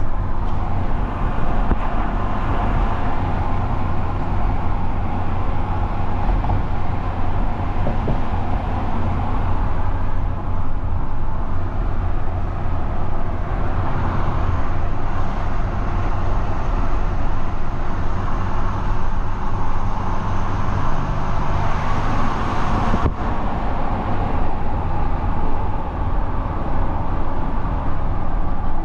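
Steady road and engine noise of a vehicle driving, a continuous low rumble with tyre hiss.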